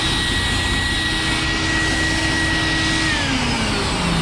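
Free truck-wash vacuum running with a steady high whine, then winding down in pitch about three seconds in as its motor shuts off.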